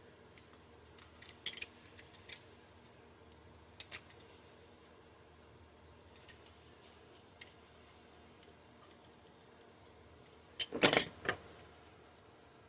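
Small metal parts from a microwave fan motor clicking and clinking against each other and against hand tools while aluminum is stripped off them. The ticks are scattered and light, with a louder clatter of metal about eleven seconds in.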